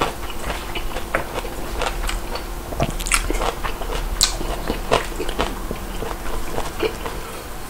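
Close-miked eating: a person chewing a mouthful of ramen noodles, with many short wet mouth clicks and smacks.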